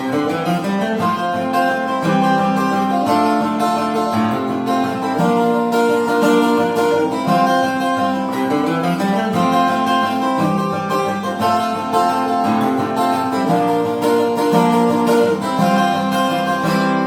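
Acoustic guitar playing an instrumental passage of plucked and strummed notes, with no singing.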